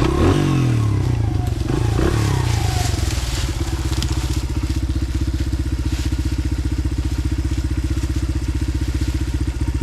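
Dirt bike engine running loud and close, its revs rising and falling over the first few seconds, then holding steady.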